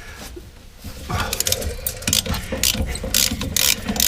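Socket ratchet clicking in quick repeated runs, starting about a second in, as it is worked back and forth to loosen the 9/16 in caliper mounting bolts.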